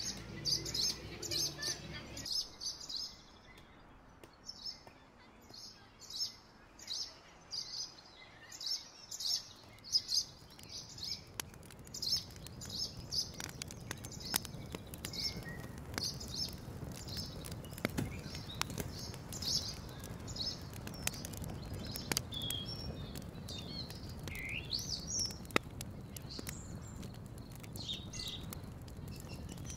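A small bird chirping over and over, about two to three short high chirps a second, with a few rising whistled calls near the end. Scattered light clicks sound underneath.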